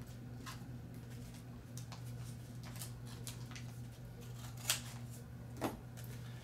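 Scissors and the paper backing of a self-adhesive insignia being handled: faint rustles and small clicks, with two sharper clicks about a second apart near the end, over a steady low hum.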